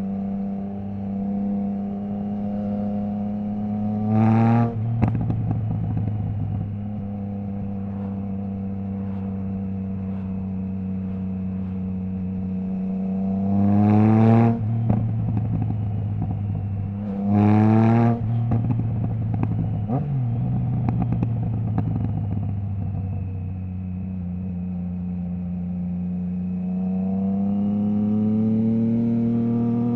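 Triumph Trident 660 inline-three with a Zard full exhaust, baffle removed, riding under load: engine pitch climbs and is cut off sharply three times as the quickshifter snaps through upshifts, with exhaust crackle after the shifts. Between the shifts it holds a steady note, and near the end it builds revs slowly again.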